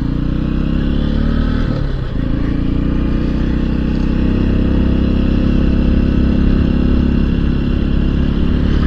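Honda XR150L's single-cylinder four-stroke engine running steadily as the motorcycle rides along, with a brief dip in pitch about two seconds in.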